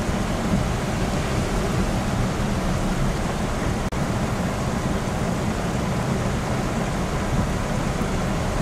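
Heavy rain falling, a steady noise with a strong low rumble. The sound cuts out for an instant about four seconds in.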